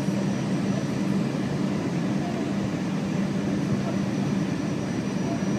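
Steady engine and airflow noise heard inside the cabin of a jet airliner in flight, an even low rumble with a faint thin high whine over it.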